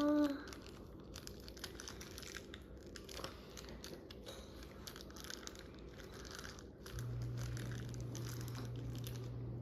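Small plastic model-airplane parts being handled and pressed together while fitting landing gear: faint scattered clicks and rustling. A steady low hum starts about seven seconds in.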